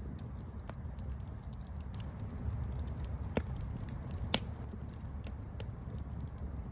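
Campfire crackling: scattered sharp pops and snaps over a steady low rumble of burning. The loudest pop comes a little past the middle.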